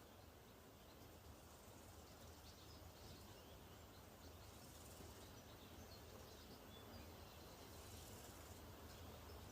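Near silence: faint steady background hiss with a low hum, and a few faint, scattered high chirps.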